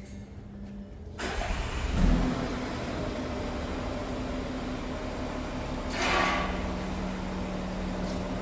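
Volkswagen Touareg V6 TDI diesel engine cranking about a second in, catching with a loud surge and settling into a steady idle, with a brief louder swell about six seconds in. It starts and runs again after new injectors were fitted and coded, where it had been failing to start.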